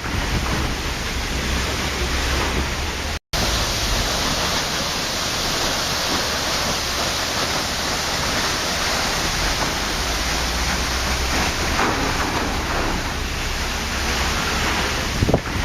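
Waterfall: a steady, loud rush of falling water. It cuts out completely for a split second about three seconds in.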